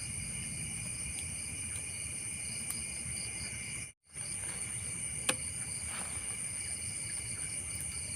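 Steady chorus of night insects such as crickets, a continuous high-pitched trilling at several pitches at once over a low background rumble. It cuts out abruptly for a split second about halfway, and a single click is heard a little later.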